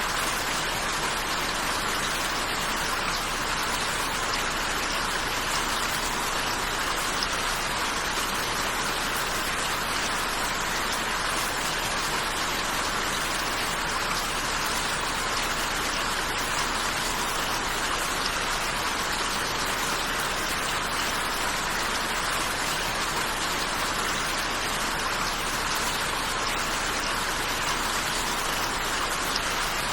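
Steady rain falling, an even hiss of drops with no lulls or gusts.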